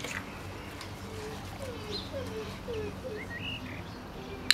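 Birds calling in the background: a run of short falling calls, then a few higher chirps. A single sharp click comes right at the end.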